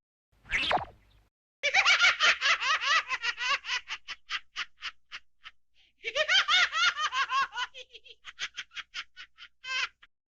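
Cartoon laughter sound effect: a brief sweep, then two runs of rapid, high-pitched laughs, each slowing down and fading, the second ending with one short last burst.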